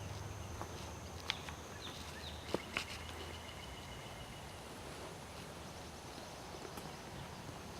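Forest ambience with a steady high-pitched insect buzz. A few sharp clicks come between one and three seconds in, and a low hum fades out after about three seconds.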